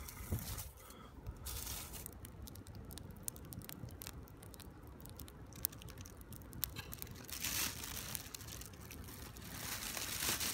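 Crinkling, scratchy rustling with many scattered sharp clicks, louder about seven seconds in and again near the end.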